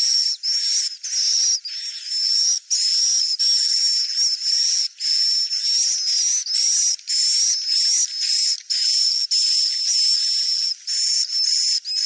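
Swiftlet calls: high-pitched twittering with a thin whistling tone, in a fast string of short phrases broken by brief gaps.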